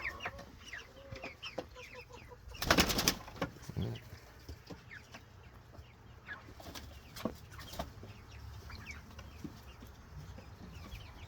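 Meat chickens clucking and calling in short, scattered notes, with one louder, drawn-out call about three seconds in.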